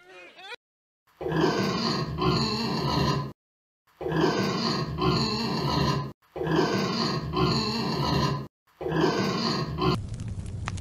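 Wild boars grunting: a rough, noisy grunting call in two pulses, repeated four times with short silences between. Near the end a crackling noise takes over.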